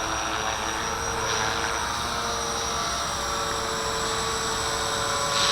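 Walkera V450D01 electric RC helicopter hovering, a steady motor whine and rotor noise mixed with gusty wind noise that swells a little near the end.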